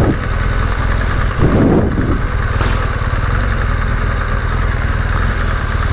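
BMW GSA motorcycle engine running steadily at low road speed through a helmet-mounted camera's microphone, with wind noise over it. A brief whoosh comes about a second and a half in.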